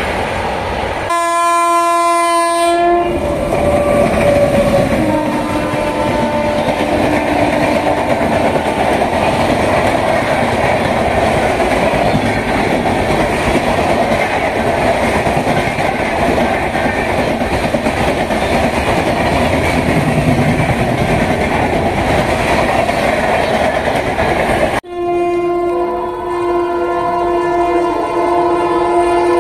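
High-speed Indian express train rushing past close by, wheels clattering hard over the rail joints, the "cracking track sound" at about 130 km/h. An electric locomotive's horn blows about a second in and again as the train passes, its pitch falling as it goes by. Near the end the sound changes abruptly to a long steady horn from another approaching locomotive.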